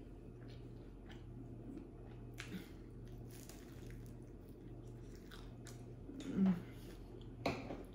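Biting into and chewing a slice of pepperoni pan pizza close to the microphone: soft, wet chewing and mouth clicks, with a longer bite a few seconds in and two louder mouth noises near the end.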